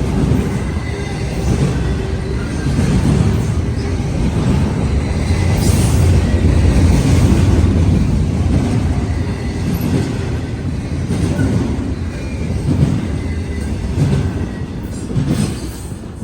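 Union Pacific freight train passing close by: a loud, steady rumble of steel wheels on the rails, with scattered clicks from the wheels.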